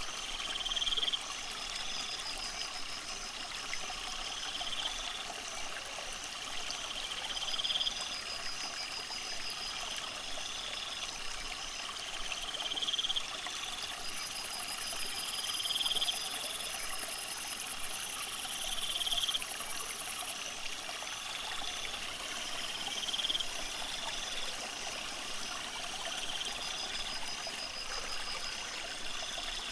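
Steady trickle of aquarium water, with short, high rising chirps repeating every second or two. A very high shrill buzz joins for several seconds in the middle.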